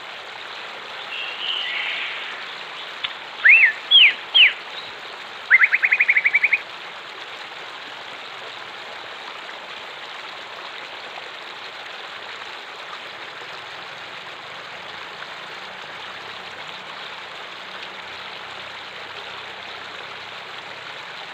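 Running water of a stream flowing steadily. A wild bird calls over it in the first seven seconds: a short chatter, three quick sweeping whistled notes, then a rapid trill of about ten notes; after that only the water is heard.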